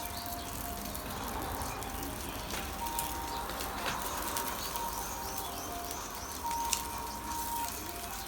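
Pork belly sizzling on an outdoor barbecue grill, with sharp pops of spitting fat. Under it runs a faint tune of held notes that change pitch every half-second or so, with small high chirps repeating in the middle.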